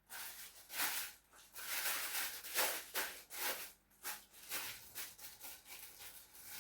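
Kitchen knife cutting through a watermelon, a series of irregular rasping strokes.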